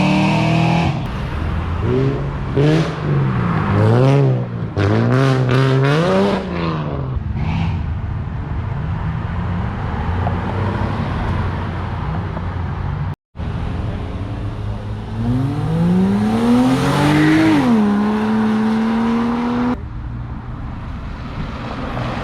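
Car engines revving in a series of quick blips. Then, after a short break, a car accelerates hard, its engine pitch climbing, dropping sharply at an upshift, and pulling on at a steady pitch.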